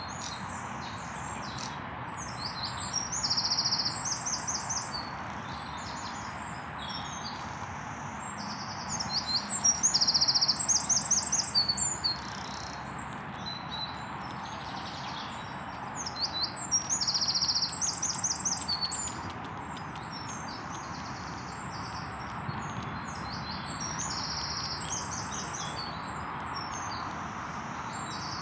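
Steady rain pouring on woodland tree tops, with songbirds singing over it. A loud trilling song phrase comes back every six or seven seconds among quieter chirps.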